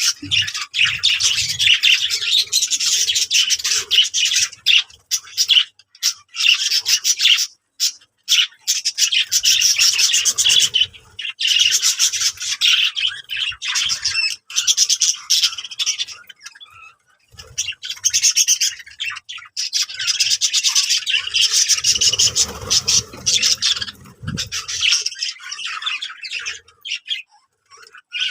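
Birds chattering: a dense run of rapid, high-pitched chirps and squawks broken by short pauses. A lower rustling sound comes in from about 22 to 25 seconds.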